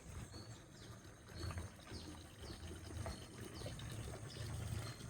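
Birds calling outdoors: short high notes that drop in pitch, repeating roughly once a second, over a low rumble of wind on the microphone.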